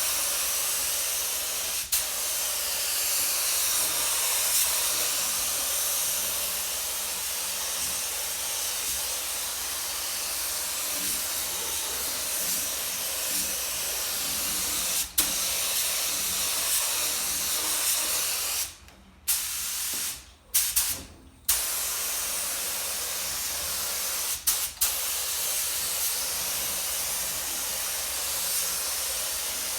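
Air-powered paint spray gun hissing steadily as it sprays paint, with the trigger let go for a moment several times, three times in quick succession about two-thirds of the way through.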